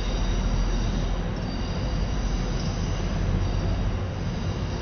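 A train moving through a station: a heavy low rumble with faint high-pitched wheel squeal that fades over the first few seconds.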